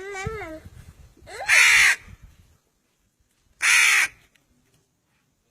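Crow cawing: two loud, harsh caws about two seconds apart, each about half a second long, after a short wavering call at the start.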